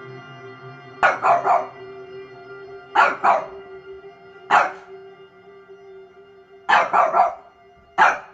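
A dog barking in five short bouts of one to three quick barks each, with pauses of one to two seconds between them, over background music with steady held notes.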